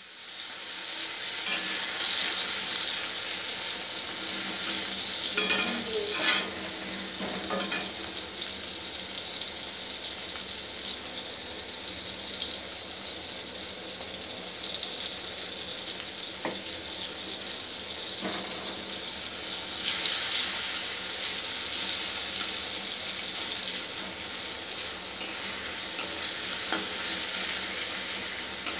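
Chopped tomatoes frying in hot oil in a wok, with a steady sizzle. A spatula stirring them gives a few scrapes and taps against the pan, the loudest about six seconds in.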